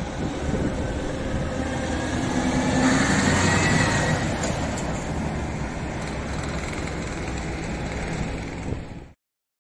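Scania S730's V8 diesel truck engine running, getting louder about three seconds in, then easing back; the sound cuts off abruptly near the end.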